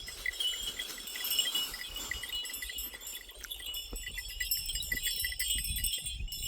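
Many small bells on a herd of goats and sheep jingling and clinking irregularly as the animals move.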